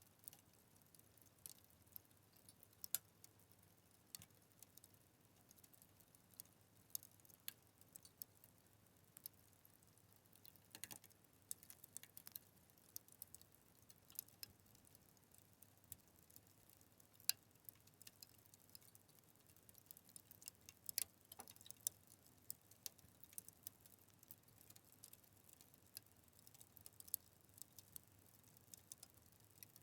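Fire crackling: irregular sharp snaps and pops, a few louder ones standing out, over a faint low hiss.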